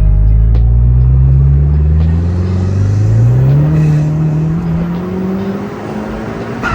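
Car engine accelerating hard, its pitch rising steadily for about four seconds and then levelling off, with a brief sharp sound near the end.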